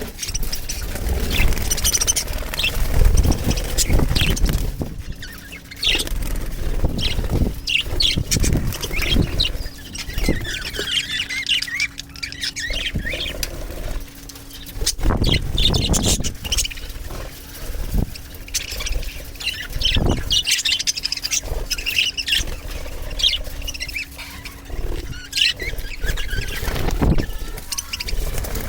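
A flock of budgerigars chirping and chattering continuously, with short high calls throughout and occasional low thumps.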